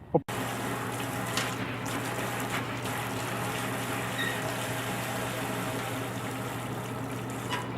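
Water running steadily from a tap, an even rushing hiss over a constant low hum.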